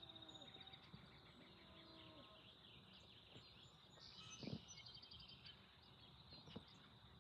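Faint birdsong: a steady high trill with scattered chirps over quiet background noise.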